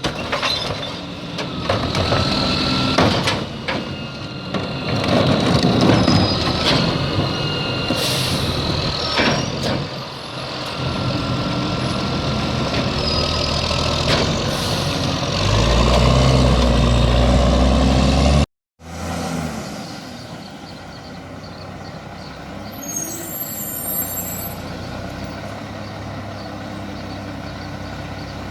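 Garbage truck at work: the engine runs while metal clanks and bangs sound from the packing, with steady whining tones. It swells into a loud low rumble before cutting off suddenly. After the cut, a truck engine runs steadily.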